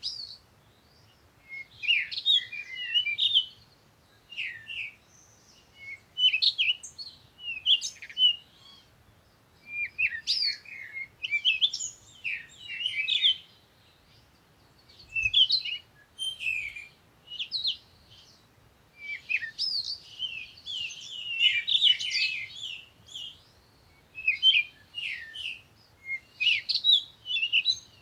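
Songbirds chirping and singing in short, high, quick phrases, one after another every second or two with brief pauses between.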